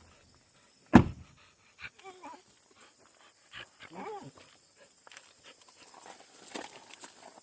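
A dog making short whining sounds, about two seconds in and again about four seconds in, after a loud thump about a second in.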